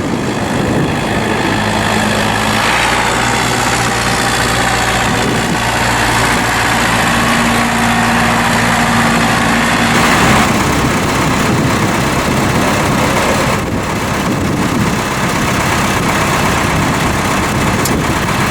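Ford 5030 tractor's four-cylinder diesel engine running steadily, with its engine note changing about ten seconds in.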